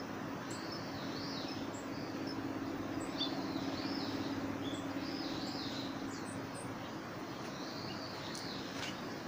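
Small birds chirping and singing, many short high calls rising and falling throughout, over a steady low hum that grows a little louder in the middle.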